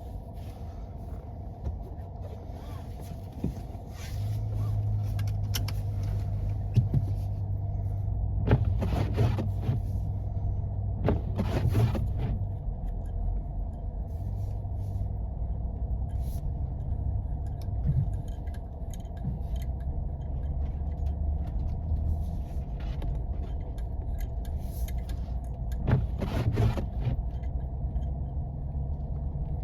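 Jeep engine and tyre noise heard from inside the cabin while driving on snowy roads; the engine's low drone steps up and gets louder about four seconds in. A few short rattling, thumping bursts come through near the middle and again near the end.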